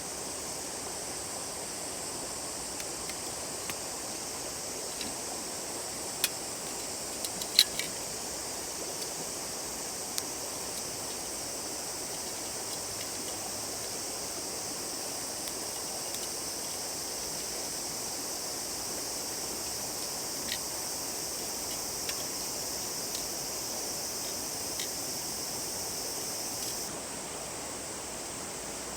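A river runs steadily under a high, even hiss. Scattered sharp crackles and pops come through, most of them about six to eight seconds in, fitting a wood campfire. The hiss cuts off suddenly near the end, leaving only the river.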